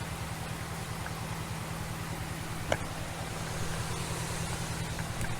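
Vehicle engine idling steadily with a low pulsing hum, and one sharp click about halfway through.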